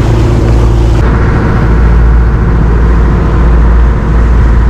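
Dive boat's engine running steadily, a loud low rumble mixed with wind and water noise, its pitch shifting slightly about a second in.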